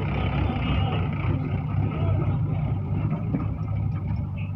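Mahindra tractor's diesel engine running steadily with a low, even hum.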